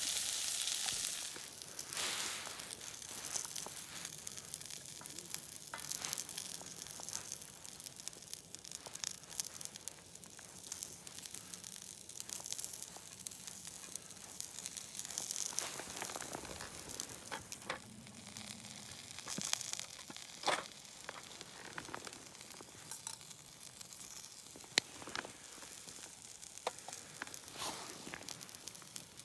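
Food sizzling in a hot pan, with scattered pops and crackles. It is loudest at the start and settles to a quieter sizzle.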